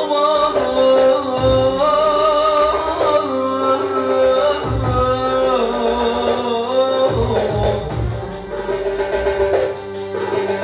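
Albanian folk music: a wavering, ornamented melody line held on long notes over a steady drone, with a few deep drum strokes.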